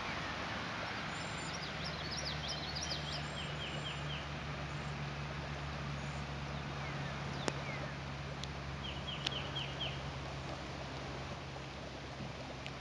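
Steady hiss of rain falling on floodwater, with a small bird giving two quick runs of chirps, about a second in and again near nine seconds, and a couple of sharp clicks.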